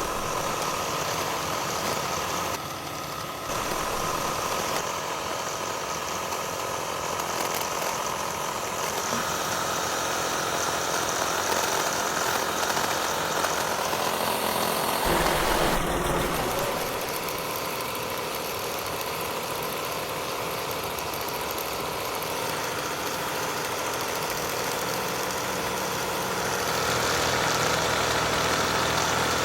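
A motor running steadily, with a change in its sound about halfway through and getting louder near the end.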